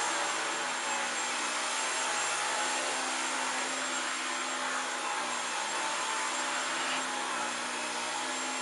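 Dyson V15 Detect Absolute cordless stick vacuum running steadily on its eco power setting: a steady rush of air with a high, thin motor whine over it.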